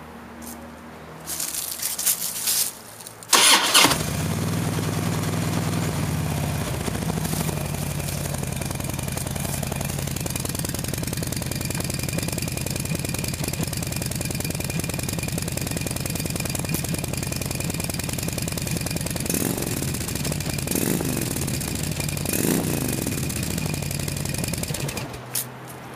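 Harley-Davidson Road King V-twin with its stock mufflers, started about three seconds in and then idling steadily, shut off near the end.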